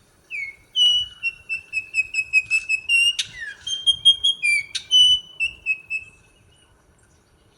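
Altamira oriole calling: a quick run of short, clear whistled notes at a fairly steady pitch for about six seconds, broken by a few sharp, harsh notes.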